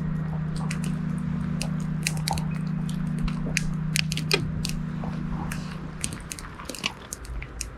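Wood campfire crackling, with many irregular sharp pops and snaps. A steady low hum runs under it and fades out about six and a half seconds in.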